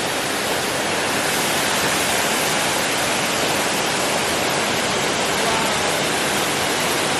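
Waterfall: a steady, unbroken rush of falling water, spread evenly from low to high pitches.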